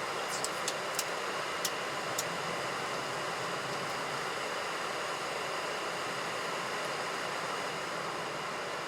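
Steady hiss of air and machinery in a Boeing 737NG cockpit on the ground, with a quick run of about seven sharp clicks in the first two seconds.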